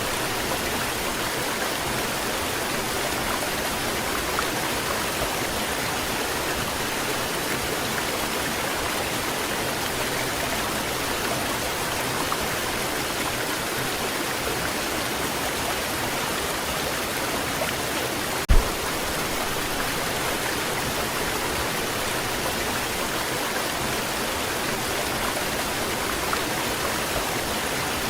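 Waterfall rushing in a steady, even hiss of falling water, with one brief thump about two-thirds of the way through.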